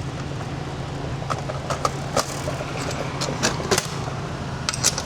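Scattered sharp metallic clicks and clinks while coins are collected from a self-serve car wash coin box, over a steady low hum.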